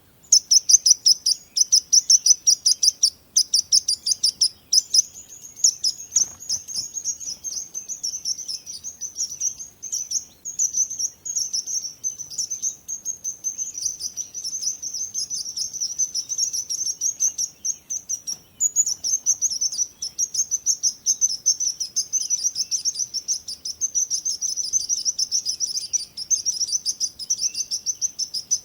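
Small birds chirping and twittering in rapid, continuous high-pitched trills, with a few brief pauses.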